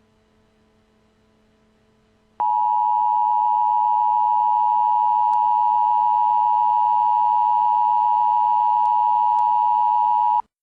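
Emergency Alert System attention tone: a loud, steady electronic tone held for about eight seconds, starting abruptly about two seconds in and cutting off sharply. It signals that an emergency alert message is about to be read.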